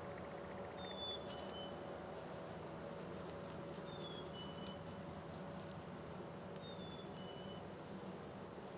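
A bird whistling a short two-note song, a higher note followed by a lower one, three times, over a faint steady low hum and scattered light ticks.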